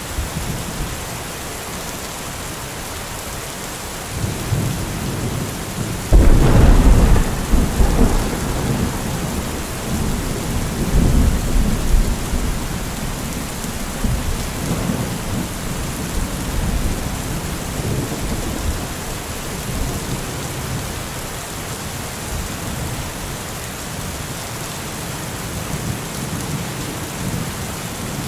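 Heavy rain falling steadily, with a thunderclap: a low rumble starts about four seconds in, breaks into a loud crack about two seconds later, and rolls on for several seconds before fading back under the rain. Another rumble of thunder begins near the end.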